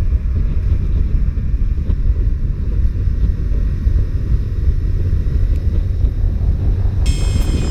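Heavy wind buffeting on the microphone over a Honda CBR125R's small single-cylinder four-stroke engine while riding. Electronic music comes in near the end.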